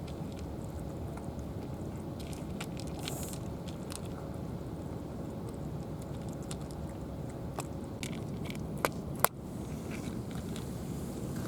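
A cat chewing and crunching food, with scattered short crunchy clicks and two sharper clicks about nine seconds in, over a steady low rumble.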